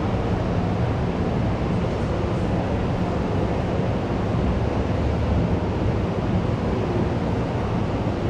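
School canteen ambience: a steady, dense hubbub of indistinct crowd noise with no single voice or clatter standing out.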